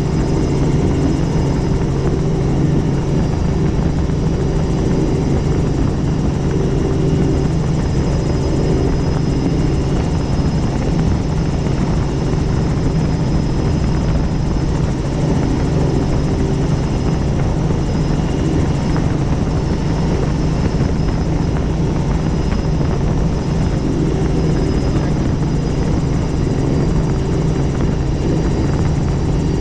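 Helicopter in flight: the steady, unbroken drone of the rotor and engine, with a thin high whine above it.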